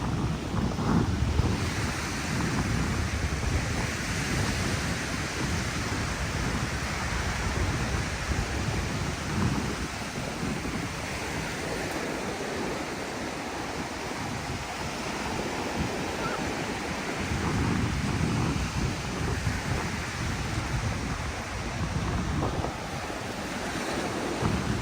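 Ocean surf washing onto a sandy beach, with wind buffeting the microphone in low gusts.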